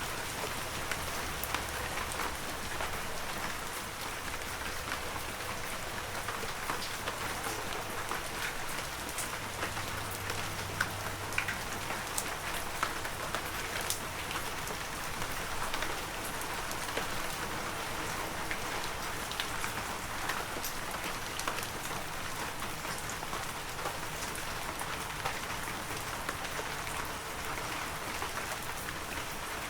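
Heavy rain falling steadily: a dense, even hiss of rain with many single drops ticking sharply on nearby surfaces.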